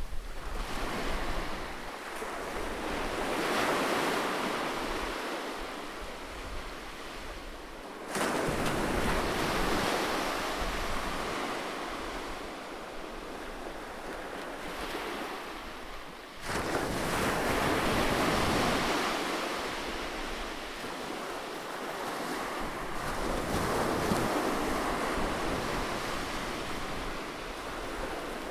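Ocean waves breaking and washing up the shore, swelling and ebbing every few seconds, with two sudden louder breaks about a third and a little over halfway through.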